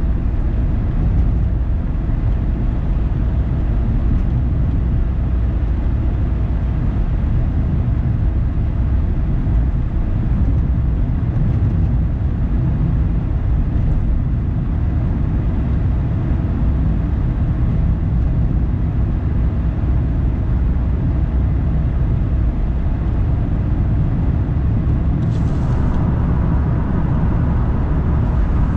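A car driving, with a steady low rumble of road and engine noise. A brighter hiss joins near the end.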